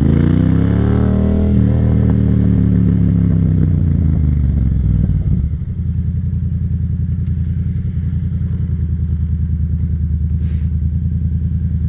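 Yamaha FZ-07's parallel-twin engine coming off the throttle after a short pull: the revs fall steadily over about five seconds, then it settles into running steadily at low revs with an even pulse.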